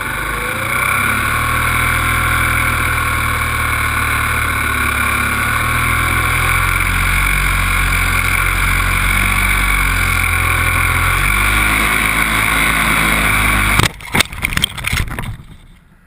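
Onboard sound of an RC Super Cub model plane in flight: its motor running steadily with heavy wind rumble on the camera. About 14 seconds in it breaks off in a quick cluster of hard knocks and scrapes as the plane hits the ground, then goes quiet.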